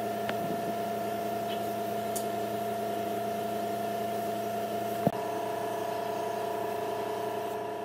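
Steady machine hum at a constant pitch, made of several held tones, with one sharp click about five seconds in.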